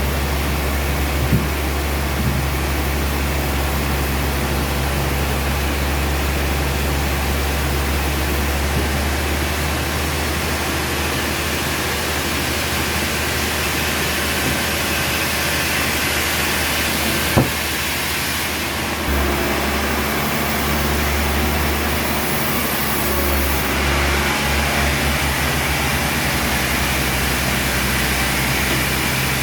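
Sawmill machinery running with a steady, loud engine-like drone over a hiss. A sharp knock comes about 17 seconds in, and the low drone shifts and flutters from about 19 seconds in.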